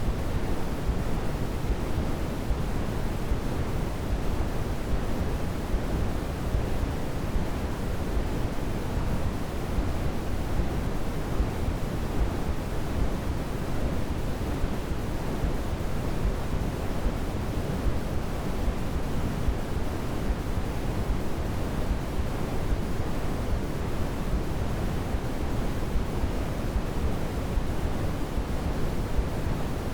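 Steady sleep-aid white noise: an even, unchanging hiss with a deep tone, strongest in the low end.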